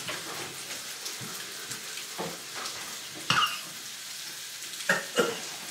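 Butter, mushrooms and onion sizzling steadily in a frying pan, with a few short sounds over it.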